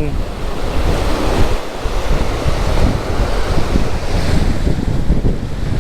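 Ocean surf washing against the shore, with wind buffeting the microphone in a steady low rumble.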